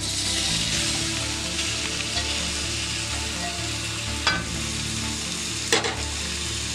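Masala-marinated chicken pieces tipped into a hot aluminium pan of frying onions. The pan sizzles louder as they land. A slotted spoon clinks twice against the bowl and pan near the end.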